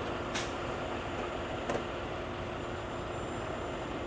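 Heavy truck diesel engine running steadily, with a brief hiss about half a second in and a light click a little later.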